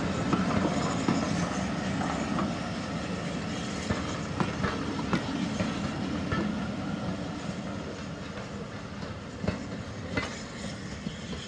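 Train rolling past, its wheels clicking irregularly over the rail joints over a steady rumble, slowly fading as it moves away.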